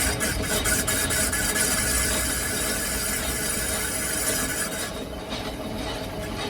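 A machine running with a steady hum while metal is cut, giving a harsh high scraping squeal for about five seconds that stops abruptly, leaving the hum.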